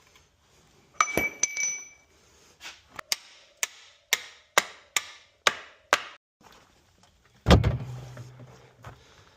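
A ringing metallic clink, then a run of about eight sharp knocks at roughly two a second, and a heavy thump near the end.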